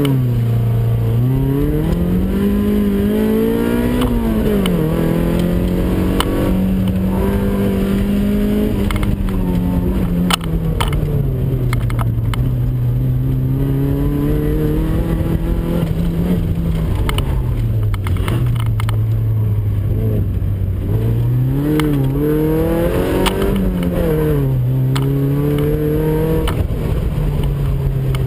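Toyota MR2 AW11 mid-mounted four-cylinder engine heard from inside the cabin on an autocross run. It revs up hard from the launch, drops in pitch at a gear change about four seconds in, then rises and falls over and over as the car accelerates and lifts through the course.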